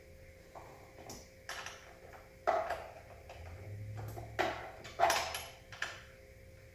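Bolts being tightened with a hand tool on an office chair: about half a dozen irregular sharp metallic clicks and knocks, each ringing briefly, as the key is turned and repositioned.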